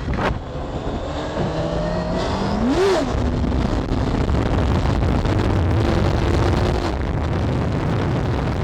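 Motorcycle engine running and revving, its pitch climbing and dropping sharply about two seconds in, then holding steadier, over road noise, with a sharp click just after the start.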